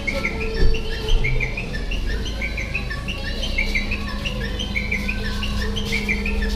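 Bird chirping: many quick, repeated chirps over a steady low drone.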